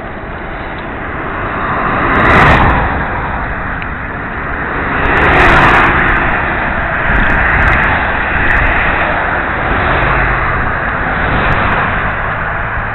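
Wind rushing over a helmet-mounted camera microphone on a moving bicycle, a loud steady noise that swells sharply twice, about two and a half and five and a half seconds in, then keeps rising and falling more gently.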